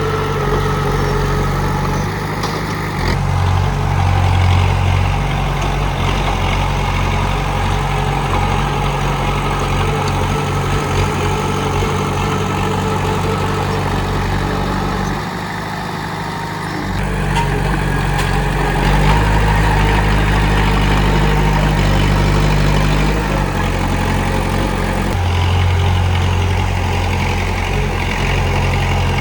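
Diesel engine of a Komatsu D31P crawler bulldozer running at work. Its low note shifts in steps several times and drops for a moment about halfway through before coming back up.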